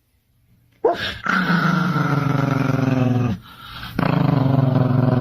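A dog growling: two long, low growls, the first starting about a second in and the second after a short break.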